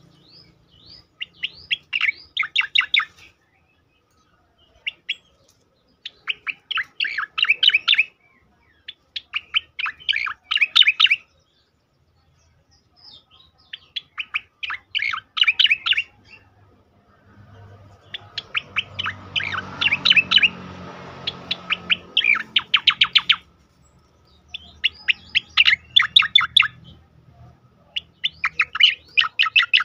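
Sooty-headed bulbul (cucak koreng) singing fast rattling bursts of rapid notes, each burst a second or two long, repeated about seven times with short pauses between.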